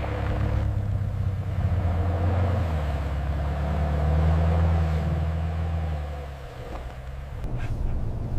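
Vehicle engine running with a low drone; its pitch shifts about three seconds in and it eases off after about six seconds.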